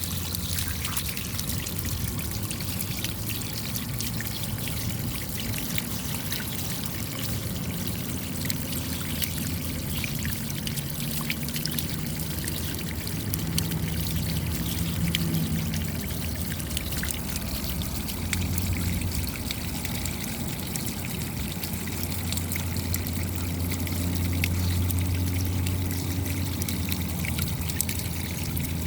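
Steady rain, a dense patter of small drop impacts over the sound of trickling, running water.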